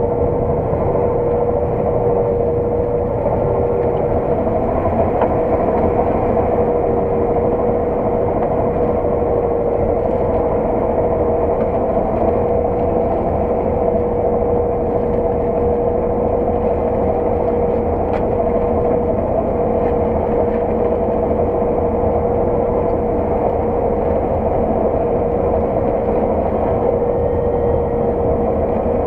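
Heavy harvest machinery running steadily at working speed: a constant engine drone with a steady whine on top.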